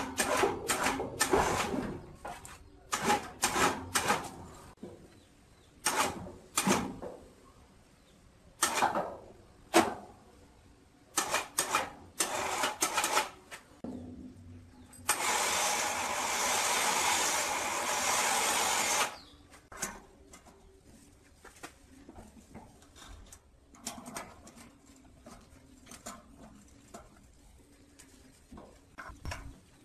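Metal parts and hand tools knocking and clattering in irregular bursts during workshop work, with a steady hiss of about four seconds midway.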